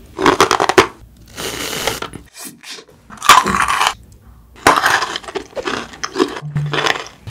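Close-miked crunching of Maltesers, malted milk chocolate balls, being bitten and chewed, in several short crackly bursts.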